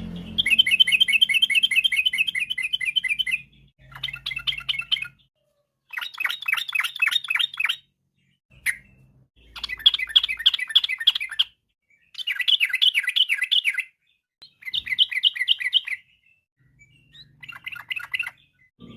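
Sooty-headed bulbul (trucukan) singing in quick, rattling trilled phrases, about seven of them, each one to three seconds long with short pauses between: the fast rolling 'ropel' song that keepers play to set their own birds singing.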